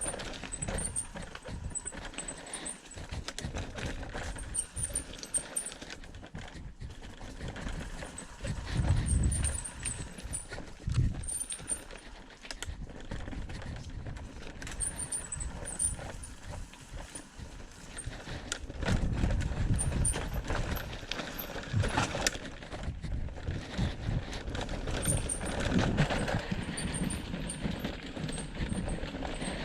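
Irregular footfalls knocking along a forest trail, with a few low rumbling swells and faint high chirps.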